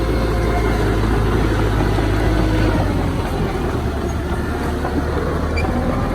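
Heavy diesel engine of earthmoving machinery running steadily, its low drone shifting slightly about three seconds in.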